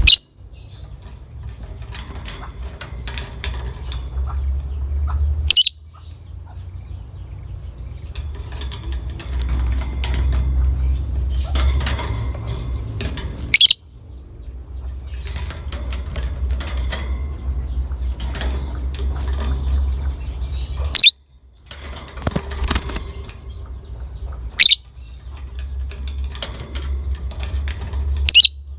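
Lovebird chattering continuously, with a loud, short, shrill call every few seconds, six times in all. A steady low hum runs underneath.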